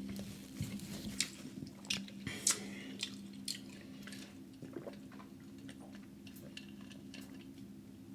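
Close-miked chewing of a crunchy mouthful, with wet mouth clicks and smacks. The sharp crunches and clicks come thick during the first four seconds, then turn softer and sparser. A steady low hum runs underneath.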